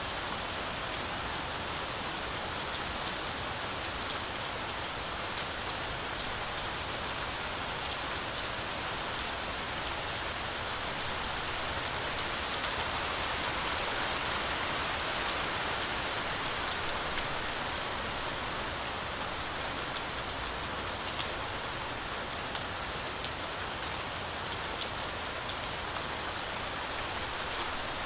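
Heavy, steady rain falling through a forest canopy, a dense hiss of rainfall with many separate drops pattering on leaves, swelling a little in the middle.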